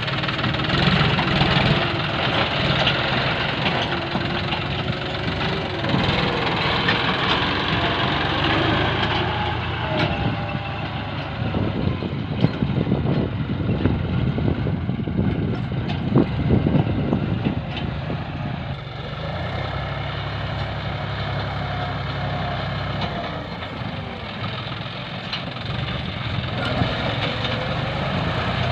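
John Deere tractor's diesel engine running while plowing, its pitch rising and falling several times as the revs change, with a few clanks in the middle.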